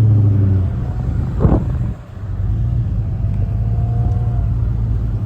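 Truck engine running with a steady low drone that drops in level under a second in and then carries on, with a short brief sound about a second and a half in.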